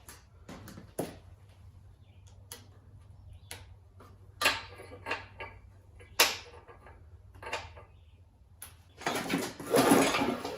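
Scattered metallic clicks and clanks of tools and engine parts being handled, then near the end a longer, louder rattling rush, fitting the mower engine's recoil starter being pulled to crank it over during a spark check.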